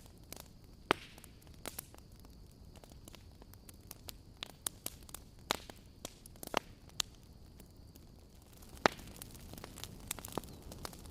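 Wood fire crackling: irregular sharp pops and snaps over a faint steady hiss, the loudest pop about nine seconds in.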